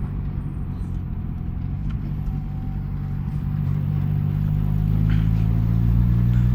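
Car engine heard from inside the cabin while driving and accelerating. It is a low drone whose pitch climbs slowly and which grows steadily louder through the last few seconds.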